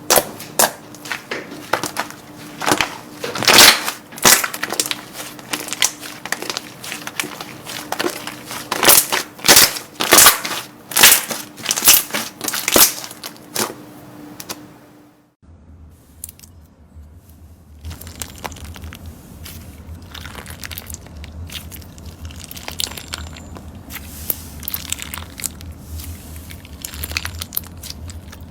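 Slime being pressed and squeezed by hand, giving dense, sharp crackling pops. About halfway through it switches to a quieter clip of softer, finer crackling over a low hum.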